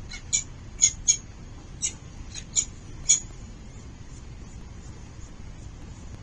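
Falcons at the nest calling in a quick run of about eight short, high-pitched squeaks during the first three seconds, typical of begging at a feeding.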